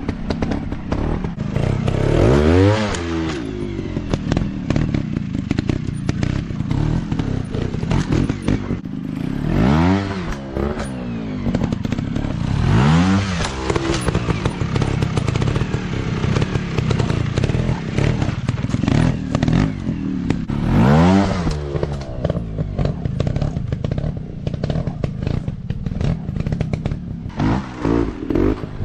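Small 150 cc dirt-bike engines running continuously, with the throttle opened and closed every few seconds so the pitch rises and falls in repeated surges. Clattering and knocking sounds run throughout.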